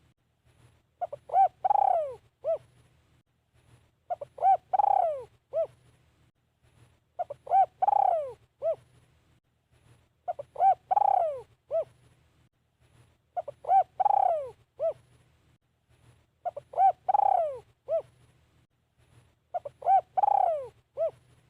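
Spotted dove cooing its call over and over, about once every three seconds. Each phrase is two short coos, a longer, louder coo that falls in pitch, and one short closing note.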